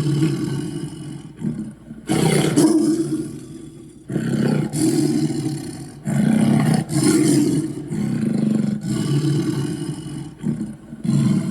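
Kaiju- or dragon-style monster roar sound effects: a string of about seven raspy roars, each a second or two long, the loudest one about two seconds in.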